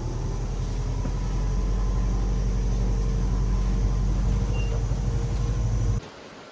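A vehicle engine running steadily with a low, even hum. It cuts off abruptly near the end, leaving a much quieter steady hiss.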